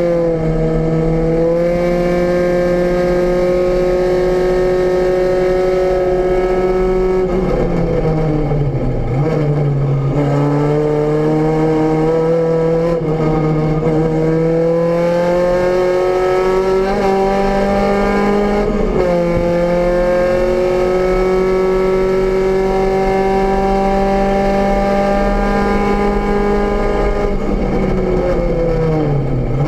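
VW Rabbit GTI race car's four-cylinder engine, heard from inside the cabin, running hard at high revs. Its pitch climbs slowly, then falls and climbs again about a quarter of the way in, around two-thirds of the way in, and near the end as the driver comes off the throttle and shifts.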